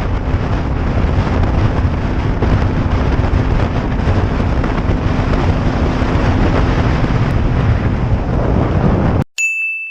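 Heavy wind noise buffeting an action-camera microphone over a motorcycle engine while riding. Near the end the noise cuts off abruptly and a short high-pitched tone sounds.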